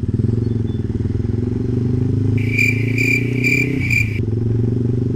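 Yamaha Jupiter MX motorcycle's single-cylinder four-stroke engine running on the move, its pitch shifting briefly about four seconds in. Partway through come four short, high beeps, about two a second.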